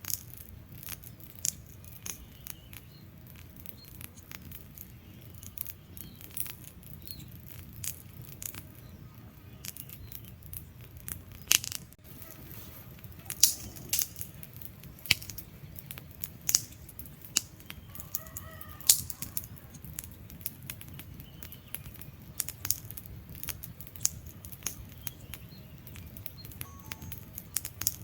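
Wood fire crackling in a fireplace: irregular sharp pops and snaps of burning logs over a low steady rumble of the flames, with the loudest pops in the middle stretch.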